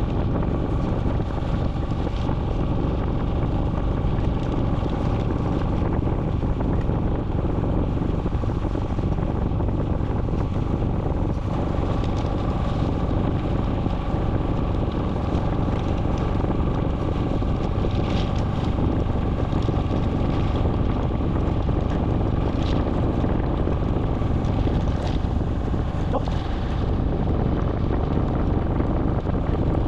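Steady wind noise buffeting the microphone, an unbroken low rumble with a few faint ticks.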